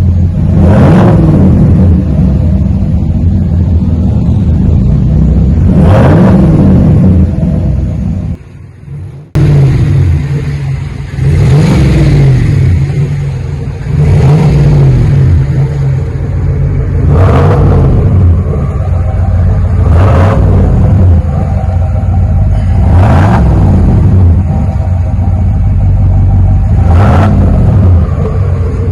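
Chevrolet Silverado 5.3-litre V8 idling through a single chamber V-tube muffler with the resonators removed, blipped repeatedly with quick revs every few seconds, each surge rising and falling back to idle.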